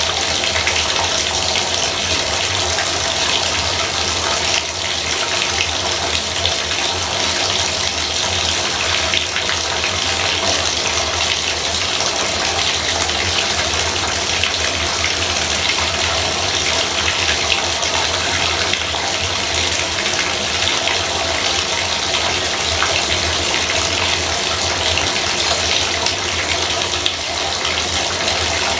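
Bathtub faucet running, a steady stream of water splashing into the tub.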